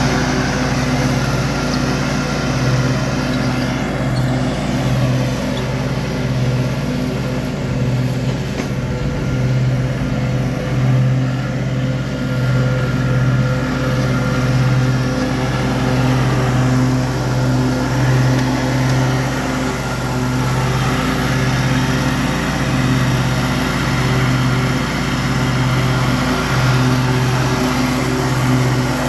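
Gravely 48-inch walk-behind mower's engine running steadily under cutting load, with a strong low hum that wavers slightly in loudness.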